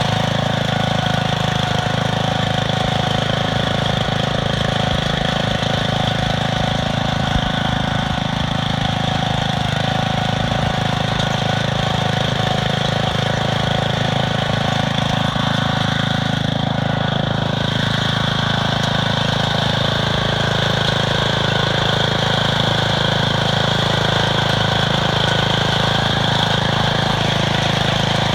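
Planet Jr tractor's engine running steadily at an even speed.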